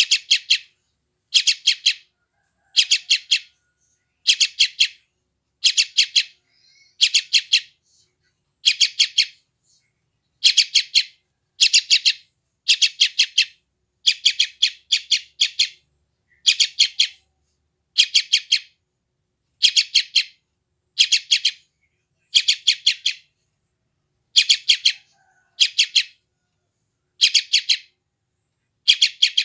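Sooty-headed bulbul (trucukan) chick giving its noisy begging call, the call of a hungry young bird. Short bursts of four or five rapid high chirps repeat at an even pace, a little more than once a second.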